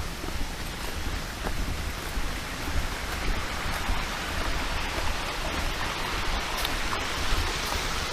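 Steady rushing noise like running water, with a low rumble on the microphone and a few light clicks.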